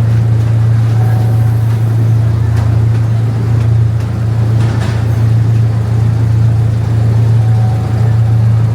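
Amusement-park miniature train's engine running with a steady, loud low drone, heard from on board.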